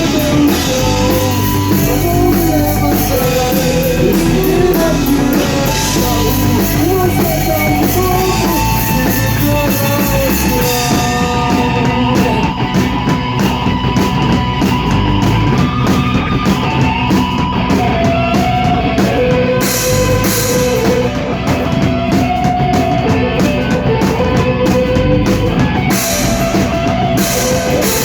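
Rock band playing a song live in rehearsal: drum kit, distorted guitar and bass under a sung vocal melody. The cymbal wash gives way to crisp, regular ticking about eleven seconds in.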